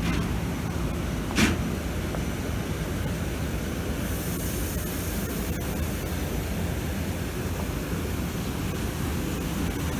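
Steady low rumble and hiss of an approaching train, with a brief louder whoosh about a second and a half in and faint ticks in the second half.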